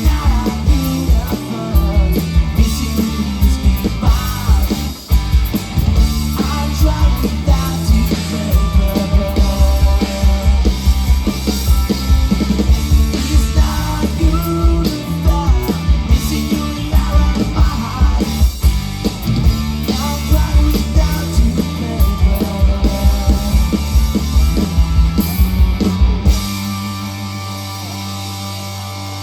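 Rock band playing a loud instrumental passage with guitar and a driving beat; about 26 seconds in the beat stops and a held chord rings on.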